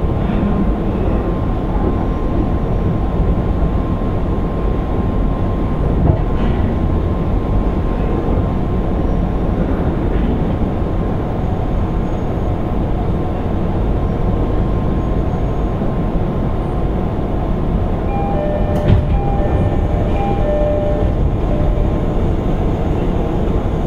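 Running sound inside a JR East 205 series 600 sub-series electric train's motor car on the move: a steady rumble of wheels on rail with a constant thin hum above it. About eighteen seconds in, a short run of repeated ringing tones and a single sharp click pass by.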